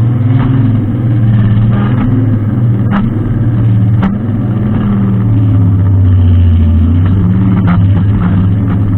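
Brushcutter engine running steadily under load, its pitch wavering slightly, with a few sharp ticks about three, four and eight seconds in.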